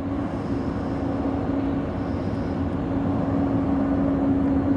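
Jet airliner engines running: a steady rumble carrying one low, even hum.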